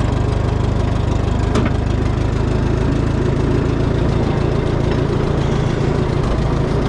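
Minneapolis-Moline GTB tractor's 403 cubic-inch gasoline engine idling steadily, with one light click about a second and a half in.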